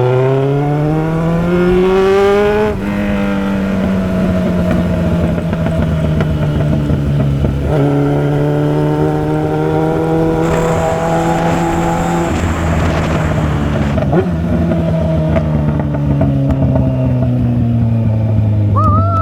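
Motorcycle engine under way: the note climbs as the bike accelerates, drops at a gear change about three seconds in, runs steadily for a while, then falls away as the bike slows near the end. Wind rushes over the microphone for a few seconds in the middle.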